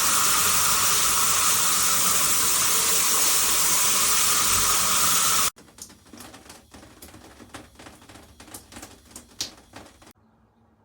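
Water spraying from an INAVAMZ 2-in-1 handheld and rain shower head, a steady loud hiss that cuts off suddenly about five and a half seconds in. Quieter scattered drips and ticks follow.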